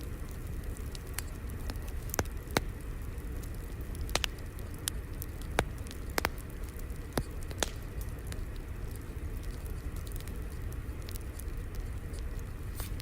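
Fire crackling: a steady low rumble broken by irregular sharp pops and snaps, most of them in the first half.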